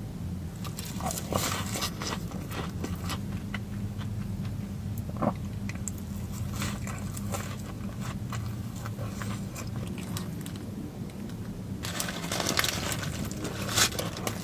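Close-miked biting, crunching and chewing of crunchy fried food, with a dense run of crackly crunches about twelve seconds in, over a steady low hum.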